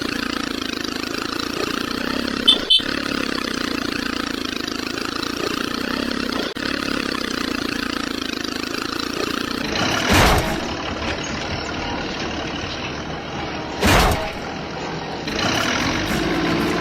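Engine running steadily, as the mini tractor's motor, with three short louder bursts in the second half.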